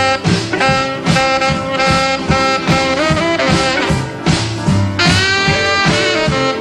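Jump-blues band playing an instrumental break: a horn section with saxophones holding and riffing on notes over a swinging rhythm section with a steady beat.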